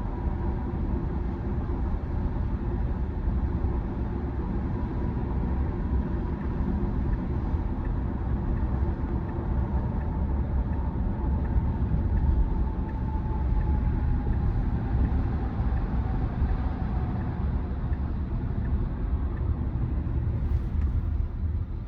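Steady road and tyre rumble inside the cabin of a Tesla Model Y, an electric car, while it drives. A faint tone slowly falls in pitch around the middle.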